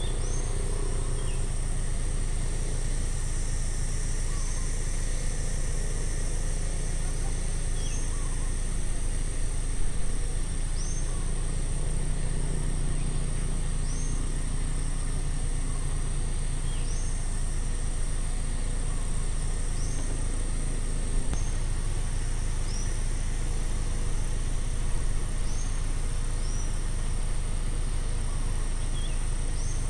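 Crickets or other insects trilling in one steady high tone while a bird repeats a short, sharp high chirp every two to three seconds, over a steady low rumble.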